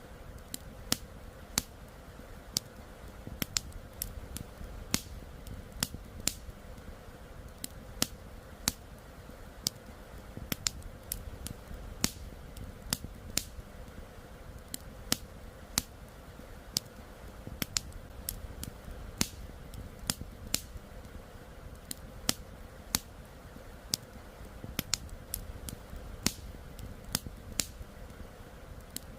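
Wood fire crackling: sharp, irregular pops and snaps, about one or two a second, over a steady low background hiss.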